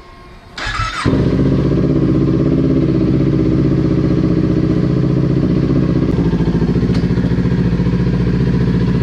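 Kawasaki Ninja 400's parallel-twin engine starting: a brief whir of the starter about a second in, then the engine catches and idles steadily.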